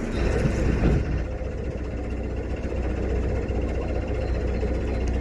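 Narrowboat engine running steadily with a low, even hum, with a brief louder noise in the first second.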